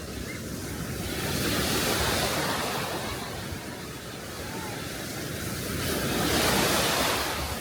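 Aegean Sea waves breaking on the shore twice, each one swelling to a rushing wash and fading away, with some wind buffeting the microphone.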